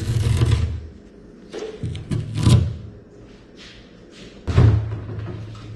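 Workshop handling noises: three separate bursts of thuds and knocks with rustling, the first right at the start, one a little past halfway, and one near the end that trails off with a low hum.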